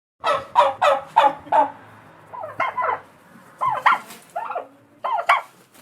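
A domestic fowl calling. A quick run of five short notes comes first, then three more bunches of short calls.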